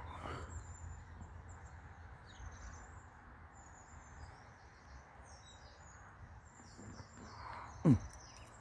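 Small birds chirping and singing over a steady outdoor background hum. Just before the end comes one brief, much louder sound that slides down in pitch.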